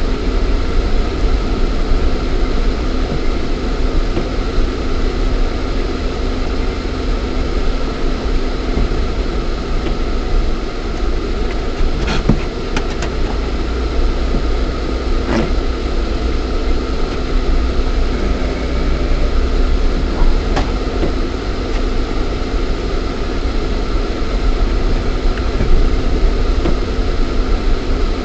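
Lada Niva 1.7i's four-cylinder petrol engine running with drivetrain and road noise, heard from inside the cabin while driving off-road, broken by a few sharp knocks from the middle onward.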